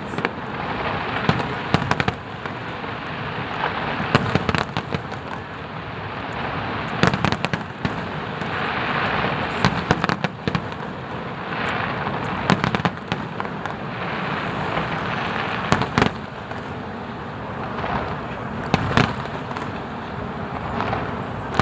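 Aerial fireworks display: a dense, continuous crackle with frequent sharp bangs of shell bursts at irregular intervals.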